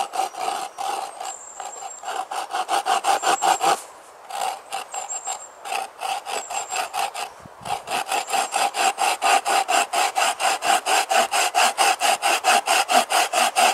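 Hand saw cutting a small notch into a wooden stake, quick short rhythmic strokes at about five a second, with brief pauses about four and seven seconds in.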